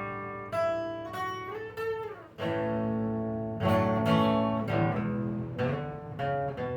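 Acoustic guitar playing an instrumental passage, single notes and chords, some sliding in pitch.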